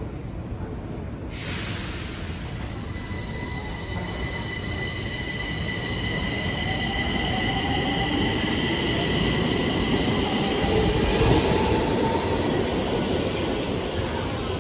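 Stockholm Metro train running on the rails, its wheels squealing with several steady high-pitched tones over the rolling rumble. A rising whine comes in about six seconds in, and the sound grows steadily louder.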